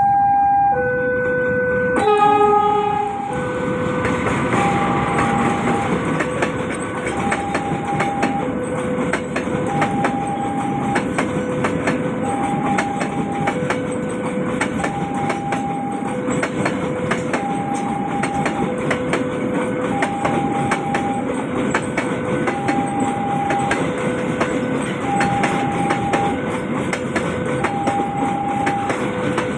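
Freight train of fuel-oil tank wagons rolling through a level crossing, its wheels clicking over the rail joints in a steady rumble. Throughout, the crossing's warning alarm alternates between two tones. A short horn blast sounds about two seconds in.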